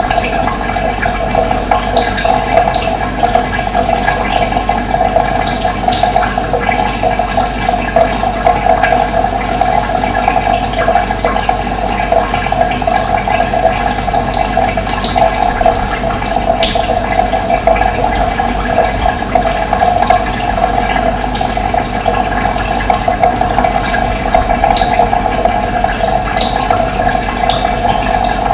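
Running water rushing steadily, with brief high bird chirps now and then.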